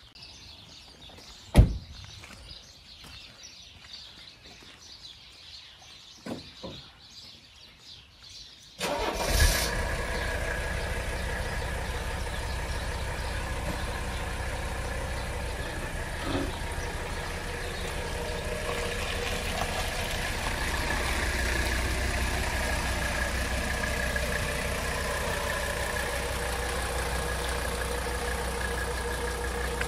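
A sharp click about a second and a half in. Then, about nine seconds in, a Mercedes-Benz W123 300D's five-cylinder diesel starts and runs steadily at idle.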